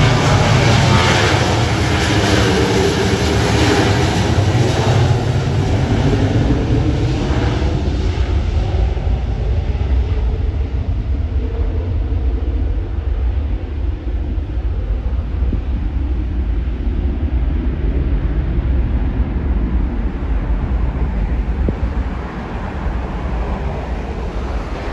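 Aircraft engines passing close by, loud at first and fading after about eight seconds into a steady low rumble.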